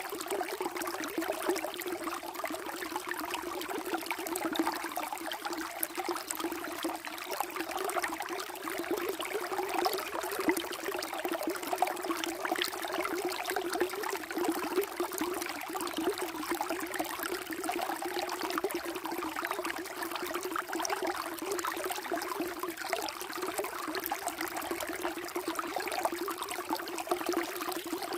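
Water flowing and trickling steadily in a small stream, a continuous babble of fine splashes and gurgles with a low rushing note.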